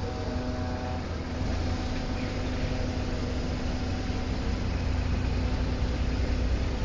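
Engine idling with a steady low rumble and a constant drone.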